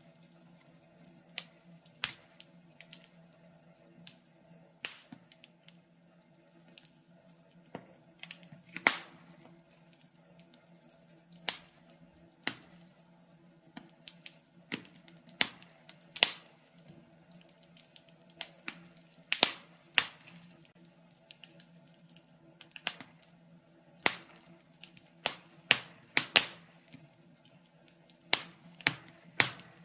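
Wood fire in a fireplace crackling, with irregular sharp pops and snaps a few times a second over a faint steady hum.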